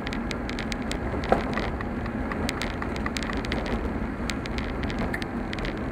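Car driving slowly on an unsealed gravel road: a steady rumble of tyre and road noise, with many small clicks and pings of stones kicked up under the car.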